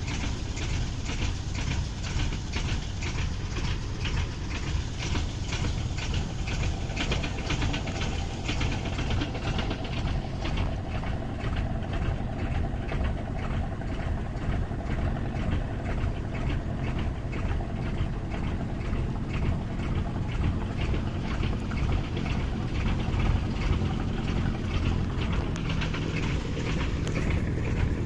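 Motor boat engine running steadily, a continuous low drone with a fast, even pulsing on top.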